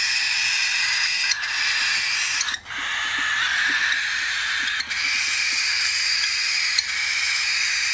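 Baby cockatiel giving a continuous raspy begging hiss, broken by a few brief pauses.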